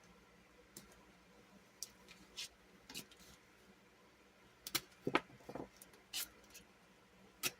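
Faint, scattered clicks and short rustles of paper and tape being handled and pressed onto a planner page, busiest about five seconds in.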